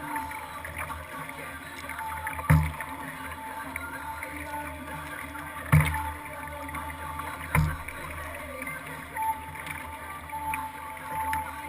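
Kayak on the water heard through a GoPro mounted on the boat: steady water and hull noise with three loud knocks a few seconds apart.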